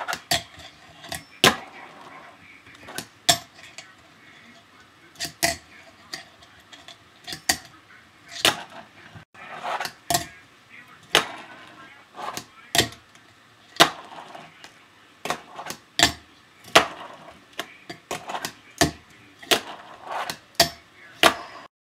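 A fingerboard doing tricks: sharp clacks of the tail popping and the wheels landing, coming at an irregular pace, with faint rolling of the small wheels between some of them.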